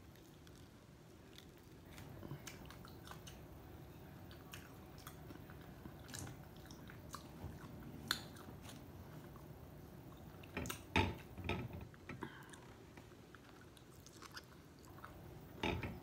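Close-miked chewing and mouth sounds of someone eating shellfish, lobster tail meat, with scattered sharp clicks as the shell is peeled by hand. There is a louder cluster of clicks and smacks about eleven seconds in and another near the end.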